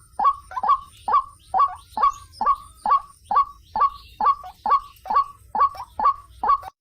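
White-breasted waterhen (ruak-ruak) calling, a short rising note repeated evenly about two to three times a second.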